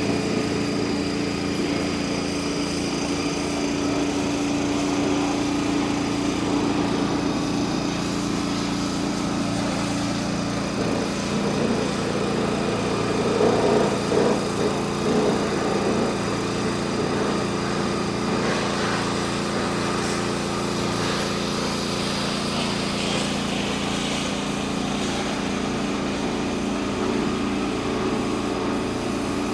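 Nissan N41 mini digger's engine running steadily, with a brief rise in level about halfway through.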